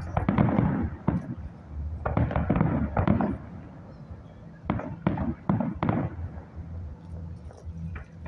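Fireworks exploding overhead: three volleys of sharp bangs and crackling, at the start, around two to three seconds in and around five to six seconds in, with a quieter stretch near the end.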